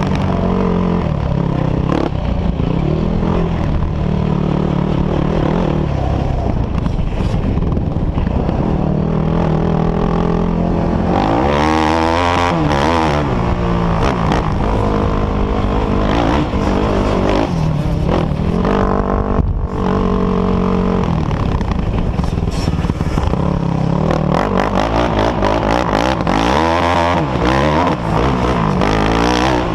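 Off-road quad and dirt bike engines running loud and revving up and down. The pitch rises and falls sharply about twelve seconds in and again near the end.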